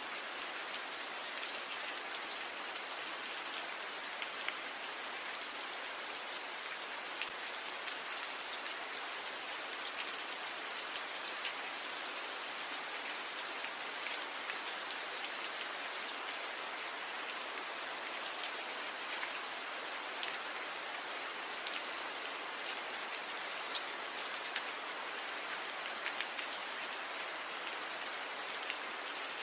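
Rain falling steadily on tree leaves: a constant even patter, with many individual drops ticking out sharper here and there.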